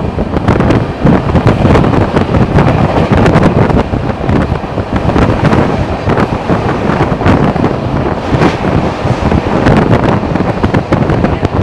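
Express train running at high speed, heard from aboard: loud rushing wind on the microphone over the rumble of the running train, with irregular knocks throughout.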